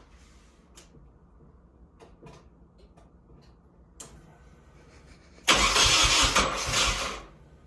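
Nissan KA24DE turbo four-cylinder engine in a 240SX being cranked on the starter, a loud two-second burst with a rapid low pulsing that starts suddenly about five and a half seconds in and cuts off, after a few faint clicks.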